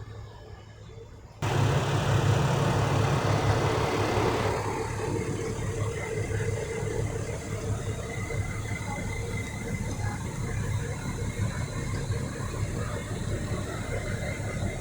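Diesel railbus engine running at a steady idle, a low rumble with a faint high whine. It comes in abruptly about a second and a half in and is louder for the first few seconds before settling.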